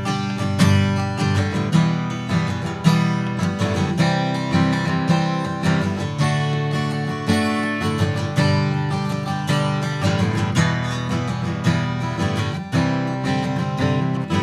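Martin D-18 steel-string acoustic guitar strummed in a steady rhythm, playing the song's G, E minor, C, D intro progression.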